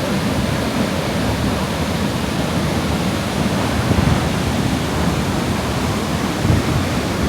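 Haew Narok waterfall's loud, steady roar of heavy rainy-season flow, a continuous rushing noise with a deep low rumble.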